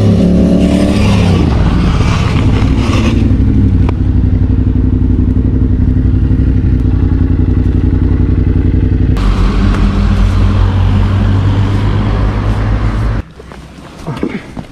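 Motorcycle engine running under way. The pitch drops over the first couple of seconds as the bike slows, then holds at a steady drone. Near the end the engine sound cuts off abruptly, leaving a quieter stretch with a few clicks and scrapes.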